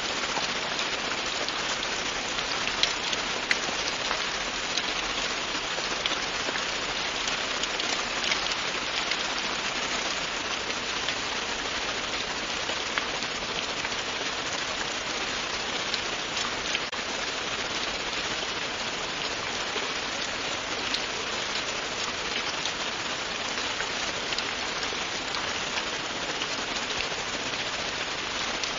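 Steady, continuous rain falling, a constant hiss with many individual drops ticking on a surface throughout.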